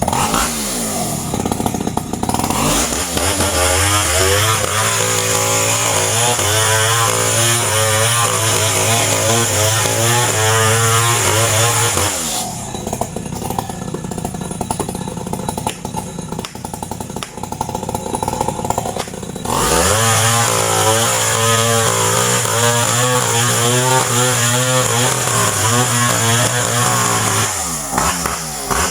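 Two-stroke chainsaw running loud, its engine note rising and falling as it is revved. For several seconds in the middle the engine note gives way to a rough rasping noise, then the revving comes back.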